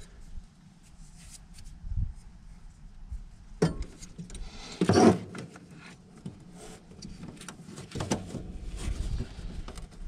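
Hands working on parts and tools: scattered knocks, clanks and rustling, with a sharp knock about three and a half seconds in and a louder clatter about five seconds in.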